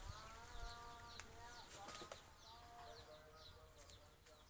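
Faint animal and bird calls: several drawn-out pitched calls overlapping, with a quick run of short high chirps repeating throughout.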